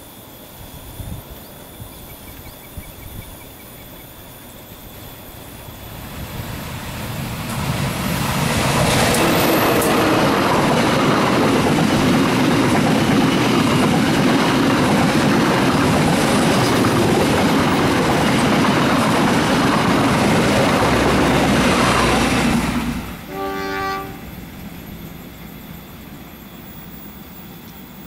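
Diesel-hauled passenger train approaching and passing close. Engine and wheels on the rails build up over several seconds and stay loud for about fifteen seconds, then cut off abruptly. A brief horn note sounds soon after.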